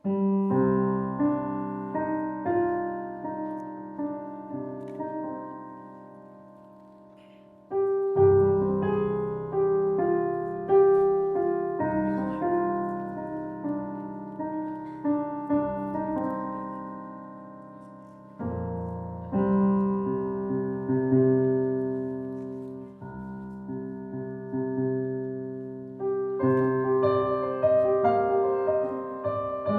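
Solo piano playing slow, sustained chords under a melody, each note struck and left to ring and fade. New phrases start with louder chords about eight seconds in, again after eighteen seconds and near the end.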